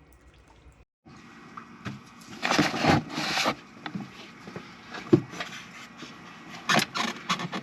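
Hands working on the engine bay with tools and parts: rustling and scraping, with a sharp click about five seconds in.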